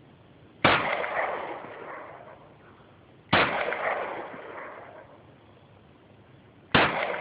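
Three pistol shots, about three seconds apart, each a sharp crack followed by a long echo dying away over a second or two.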